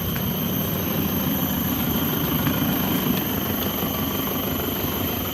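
A steady, low engine-like rumble that holds evenly throughout, with faint steady high-pitched tones above it.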